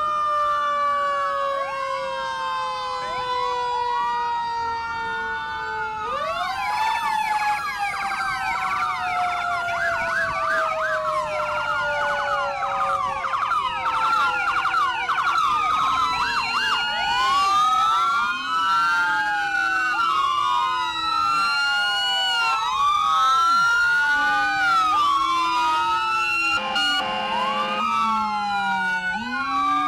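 Several emergency-vehicle sirens wailing at once, their rising and falling sweeps overlapping, with a long, slowly falling tone in the first few seconds. A short, steady blast sounds near the end.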